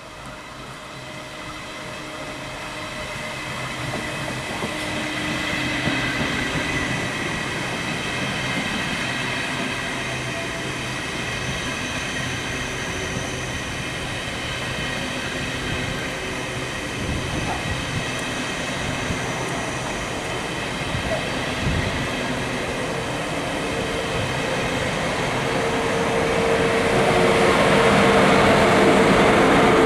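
Two coupled ICE 2 high-speed trainsets passing slowly, at about 30 km/h under a speed restriction for poor track. Steady rolling rumble of the wheels with several steady whining tones on top. It grows louder over the first few seconds and is loudest near the end, as the two coupled power cars in the middle go by.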